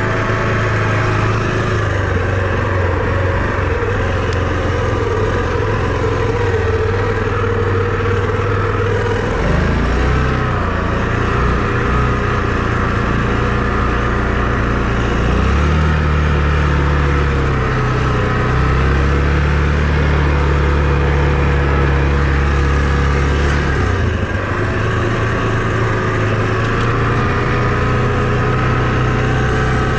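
A vehicle engine running steadily under way. Its pitch changes abruptly a few times: about a third of the way in, around halfway, and again at about three-quarters.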